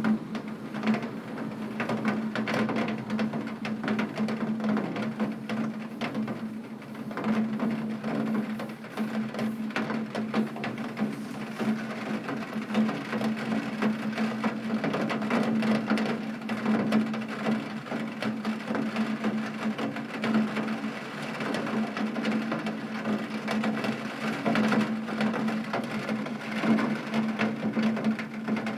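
Heavy rain pattering on window glass: a dense, steady stream of small irregular drop impacts, over a constant low hum.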